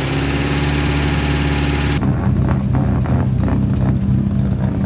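Rally car engine idling steadily. About two seconds in, the sound switches abruptly to a second rally car engine idling.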